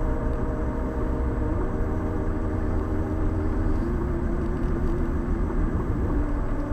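A vehicle engine running steadily with a low rumble; its pitch shifts slightly partway through.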